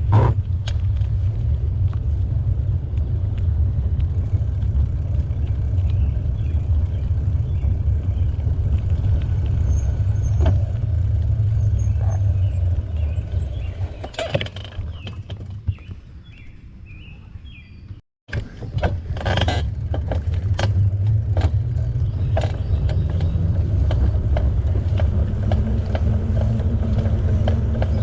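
Steady low rumble of wind buffeting the microphone and tyre noise from a bicycle being ridden. It eases off for a few seconds past the middle, breaks off in a brief silence, then returns with scattered clicks and knocks.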